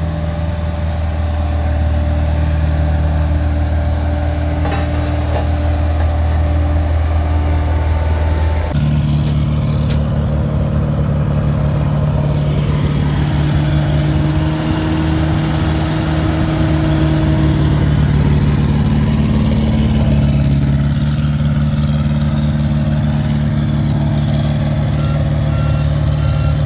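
Heavy diesel machinery at an asphalt paving site running steadily, its engine note shifting about a third of the way in. A reversing alarm starts beeping near the end.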